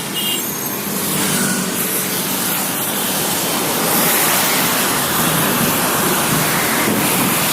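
Heavy rain with highway traffic: a steady rushing wash of rain and tyre spray from cars driving fast on a wet road.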